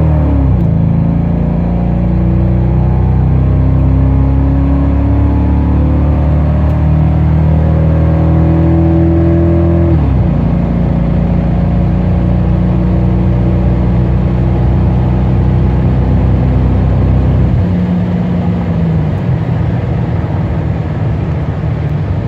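2002 Mercury Grand Marquis 4.6-litre V8 pulling hard under full acceleration through an aftermarket H-pipe, dual Flowmaster 10-series mufflers and rear cat deletes. The engine note climbs steadily, drops with an upshift about half a second in and again at about ten seconds, and eases off and quietens near the end.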